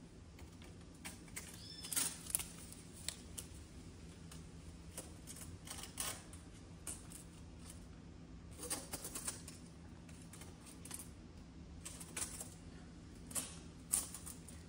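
Scattered light clicks and taps from handling a measuring tool, a dozen or so irregular strokes, over a faint steady hum.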